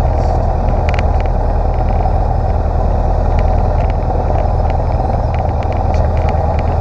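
Cessna 150's four-cylinder Continental O-200 engine and propeller running steadily, heard loud inside the small cabin, with a few faint clicks.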